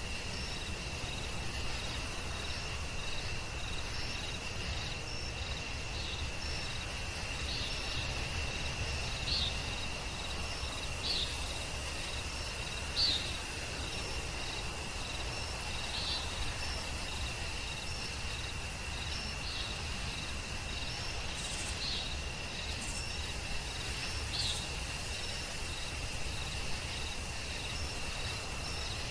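Forest ambience: a steady high-pitched insect trill, with short chirps repeating about once a second and a brief, slightly louder call every couple of seconds, over a low background rumble.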